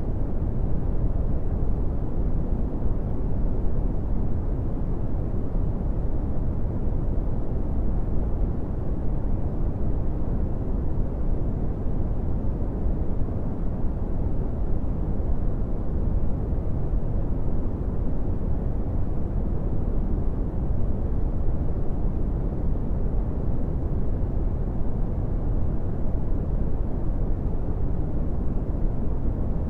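Brown noise: a steady, deep rumbling hiss with its energy low down and little above about 1 kHz, unchanging throughout.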